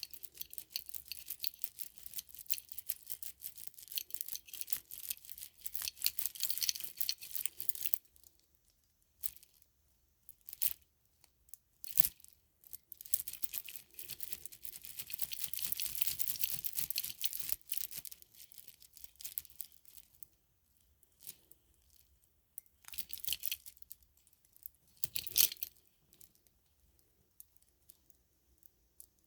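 Rustling and crackling of a plastic string of lights being handled, dense with small clicks. It comes in two long stretches with short bursts between and falls quiet near the end.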